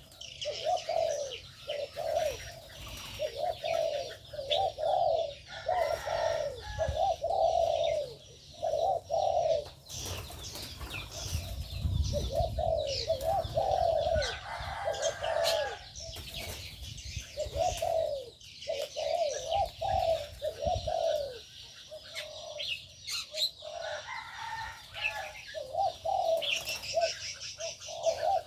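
Doves cooing in a repeated series of short, arched coos, pausing now and then, over continuous high chirping from many small birds in an aviary.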